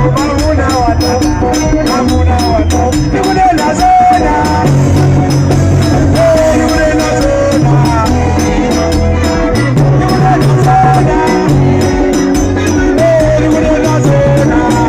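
Loud live band music: a fast, even rattling beat runs over a pulsing bass line, with a melody gliding above.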